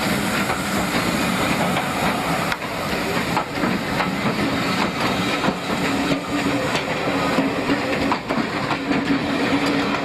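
Steam train on the move: a steady steam hiss with the rattle and clatter of wheels on rails.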